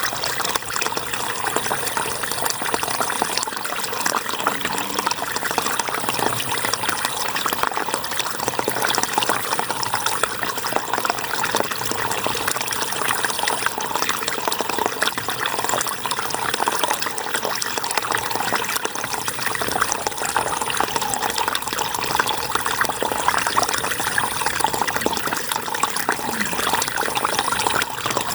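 River water flowing steadily: an even, dense rushing noise with no let-up.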